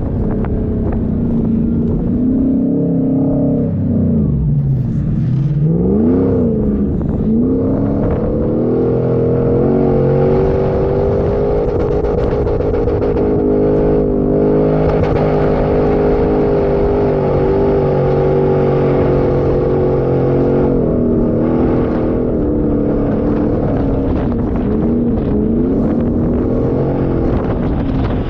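Off-road 4x4's engine revving, its pitch dipping and climbing sharply twice in the first several seconds, then holding steady high revs for about ten seconds before rising and falling again.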